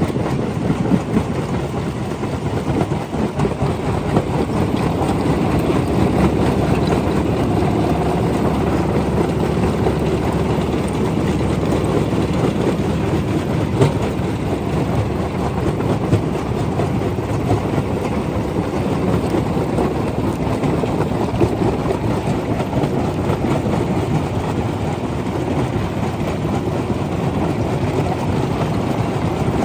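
Stone crusher running under load: a steady heavy rumble with continuous rattling and clatter of rock.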